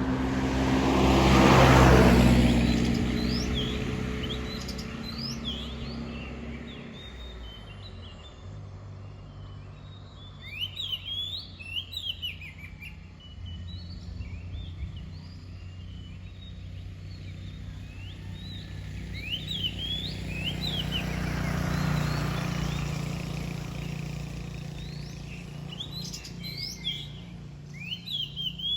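Oriental magpie-robin singing a varied run of short, clear whistled notes that rise and fall, repeated in phrases. Two passing vehicles swell up and fade underneath, the louder one near the start and another about two-thirds through.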